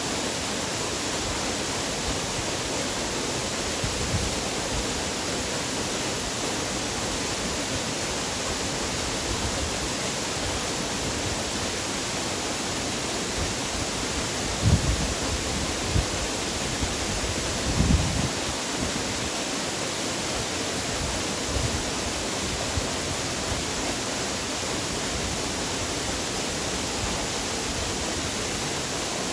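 Waterfall rushing, a steady even roar of falling water. A few brief low thumps come about halfway through.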